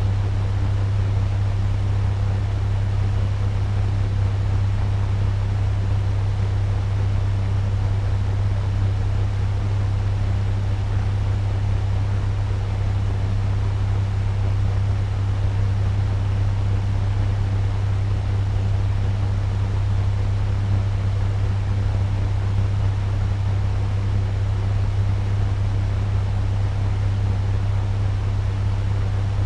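Turbo fan running steadily: an even rush of air with a strong low hum underneath.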